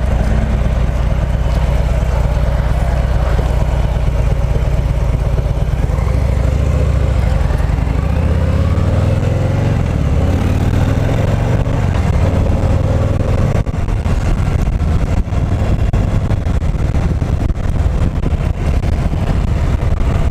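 Harley-Davidson Milwaukee-Eight 114 V-twin of a 2018 Heritage Classic running under way as the bike is ridden, its deep rumble rising in pitch as it accelerates about halfway through.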